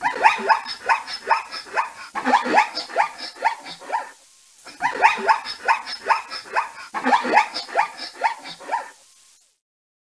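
Zebra calls: a rapid run of barking yelps, about four a second, in two bouts of about four seconds each with a brief pause between them.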